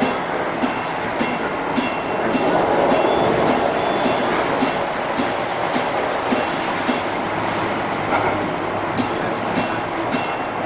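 Los Angeles Metro light-rail train running along the track, its wheels clicking over the rail joints at a steady rhythm of about one and a half clicks a second over a constant rumble.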